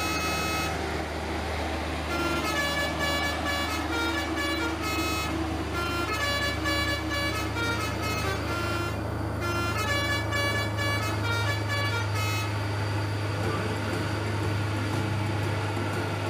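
Truck engine running steadily under a multi-tone horn that plays a string of short toots, like a tune, stopping about twelve seconds in while the engine keeps running.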